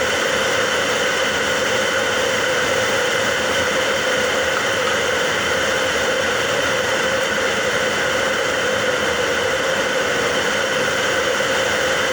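Steady, unbroken hiss of heavy rain.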